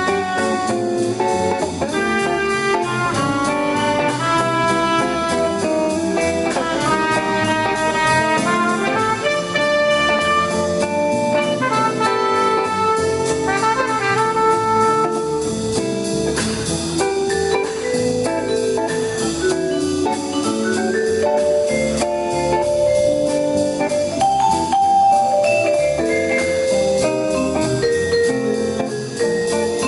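Small jazz ensemble playing live, with a melodic lead line in quick changing notes over the band.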